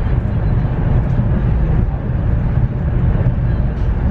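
High-speed train running at speed, heard from inside the carriage: a steady low rumble with an even rushing noise over it.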